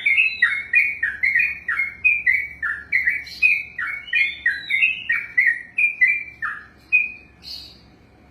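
Yellow-vented bulbul (trucukan) singing a long unbroken run of loud whistled notes, each falling in pitch, about three a second: the extended rolling 'ropel' song. The run stops about seven seconds in, followed by one faint high note.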